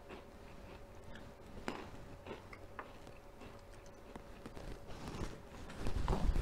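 Close-miked chewing with the mouth closed: soft, wet clicks and smacks over a faint steady hum, growing louder near the end.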